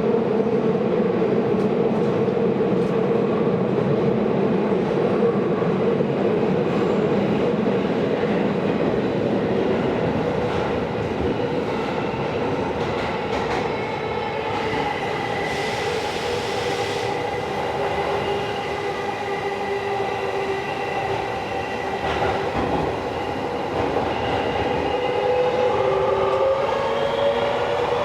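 Inside a Tokyo Metro Series 16000 subway car running between stations: a steady rumble of wheels on rail mixed with the whine of the VVVF inverter and traction motors. There is a brief hiss about halfway through, and the motor tones rise in pitch near the end.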